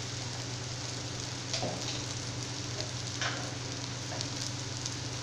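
Oil sizzling in a kadai under mashed potato, shallots, curry leaves and dried red chillies: a steady frying hiss with a couple of faint clicks.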